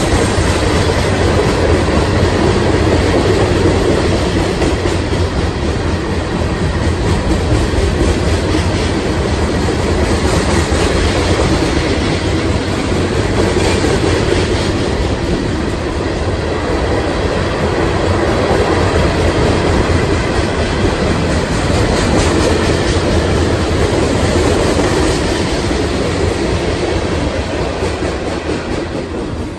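Open-top aggregate freight cars of a Union Pacific ballast train rolling past at close range: a loud, steady rumble of steel wheels on rail with clickety-clack over the rail joints, starting to fade at the very end as the last car goes by.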